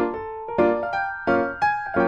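Background music led by piano or keyboard, notes struck in an even rhythm and dying away, over held higher tones.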